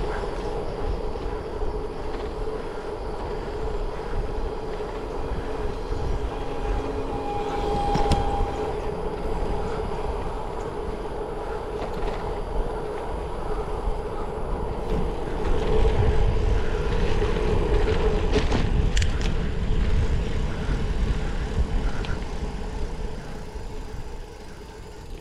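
Wind rumbling on the microphone and tyre noise from a bicycle in motion, steady throughout, with a few faint clicks and a louder stretch a little past the middle.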